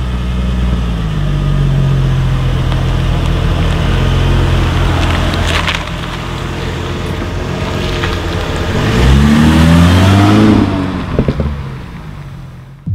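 Mercedes-Benz SLK (R171) engine running on its stock exhaust after a cold start, a steady idle drone. About six seconds in it quietens, then the car pulls away: the engine note rises to its loudest and falls off as it drives out of earshot.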